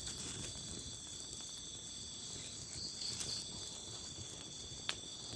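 Steady chorus of night insects, crickets and similar, holding several high continuous tones in a tropical forest at night. A single sharp click sounds near the end.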